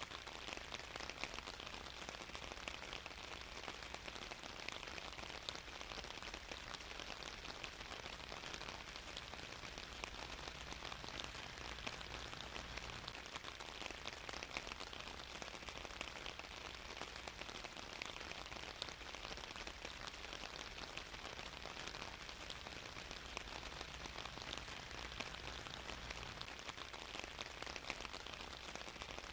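Steady rain falling, a constant hiss dense with fine drop patter on a surface.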